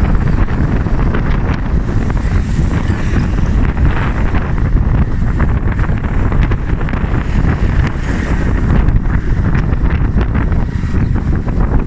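Strong wind buffeting the microphone over a steady low rumble, as from a moving vehicle.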